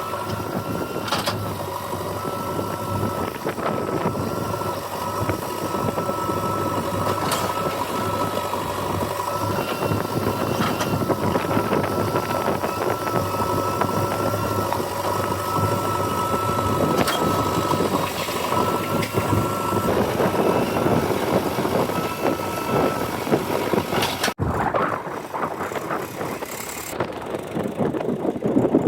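JCB 3DX backhoe loader's diesel engine running while it works, with a steady high whine over the engine noise; the sound changes abruptly about 24 seconds in.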